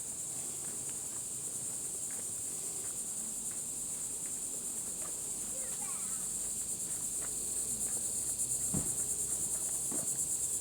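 Steady, high-pitched chorus of insects trilling in a fast, even pulse, with a few faint ticks under it.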